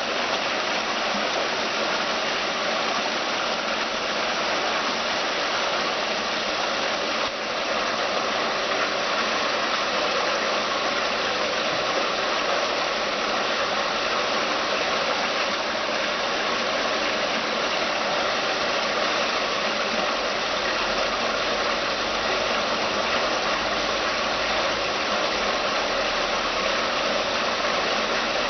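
Water falling down the steps of a stainless-steel cascade fountain: a steady rush of splashing water, with a brief dip about seven seconds in.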